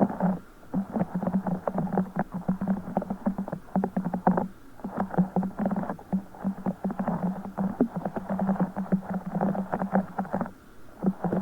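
Wet squishing and crackling of a broken orbeez stress ball, its water beads squeezed and kneaded by hand in a dense, continuous run, with brief pauses about four and a half and ten and a half seconds in.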